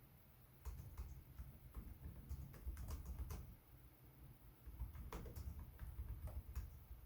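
Typing on a Lenovo Legion 5 Pro laptop keyboard: irregular key clicks beginning under a second in, a pause of about a second midway, then another run of keystrokes.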